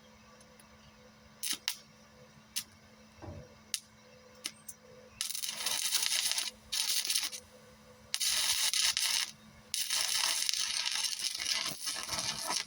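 Stick welding: the welding rod's arc crackling and sizzling in four runs of one to two seconds each, with short breaks, after a few sharp scratching clicks as the rod is struck.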